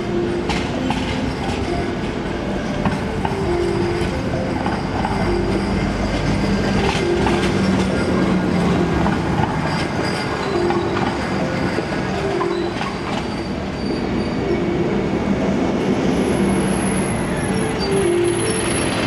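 Manchester Metrolink tram moving on street track: steel wheels running on rail, with intermittent wheel squeal and some clicks over a steady din.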